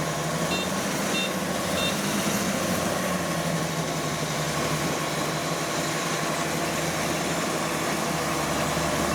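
Farm machine's engine running steadily with a constant hum, with three short high-pitched beeps evenly spaced in the first two seconds.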